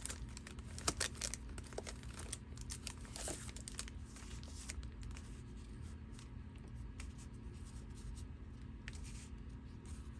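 Paper journal cards and ephemera being handled and sorted: rustling and light taps, busiest in the first few seconds, over a steady low hum.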